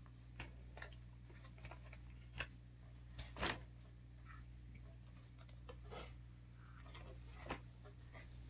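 Scattered light clicks and taps of objects being handled, with a sharper knock about two and a half seconds in and a louder one about a second later, over a faint steady hum.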